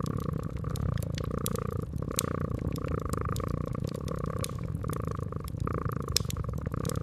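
Domestic cat purring steadily and close up, with a wood fire crackling alongside: scattered sharp pops and snaps over the even purr.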